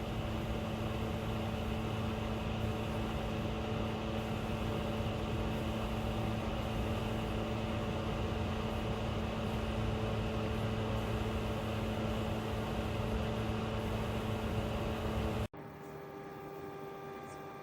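Small portable evaporative cooler's fan running steadily: an even airy noise with a steady motor hum. About three-quarters of the way through it cuts off suddenly, and a quieter electrical hum follows.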